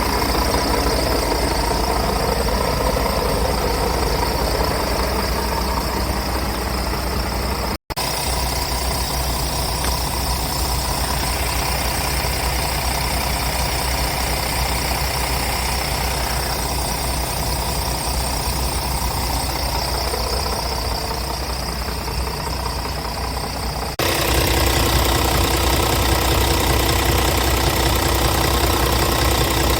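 Scania G410 truck's 13-litre six-cylinder diesel idling steadily. The recording cuts briefly about 8 s in, and after a second cut near the end the engine is a little louder.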